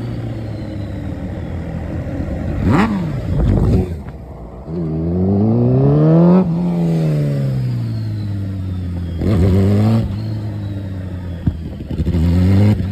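Superbike engine idling, revved up smoothly once and then falling back to idle, with a few short, loud throttle blips.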